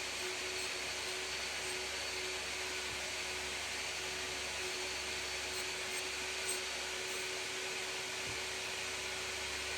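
A small high-speed electric motor running steadily, a constant whine over an even rushing hiss.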